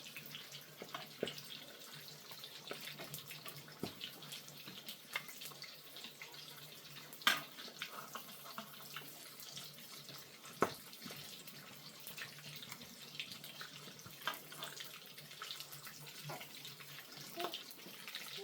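Faint running or splashing water, with scattered light clicks and knocks, two of them sharper a little past the middle, over a steady low hum.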